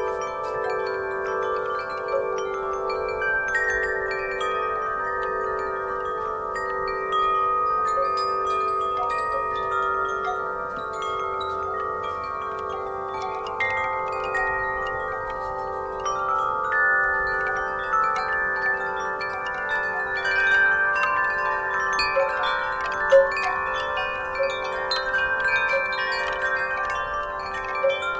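Metal wind chimes struck over and over by the breeze, many overlapping tones ringing on, with one louder strike near the end.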